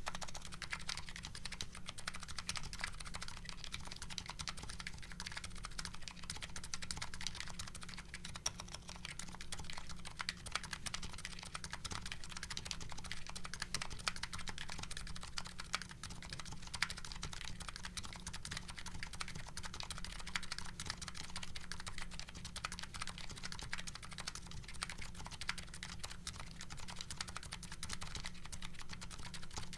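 Continuous fast typing on a custom mechanical keyboard fitted with MetaPulse electrocapacitive switches and GMK Hennessey keycaps: a dense, even stream of key clacks with no pauses.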